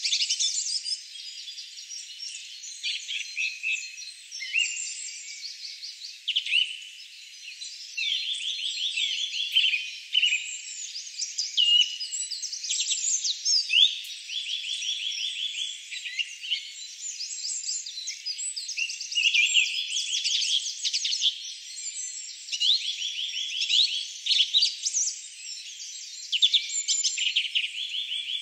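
Several songbirds singing over one another in a continuous chorus of rapid trills and short chirps, all high-pitched.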